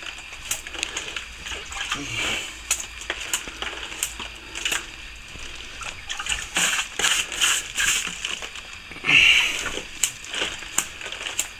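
Water being splashed and dabbed onto cracks in old plaster in irregular wet strokes, with a louder splash about nine seconds in. The cracks are being wet down before filling.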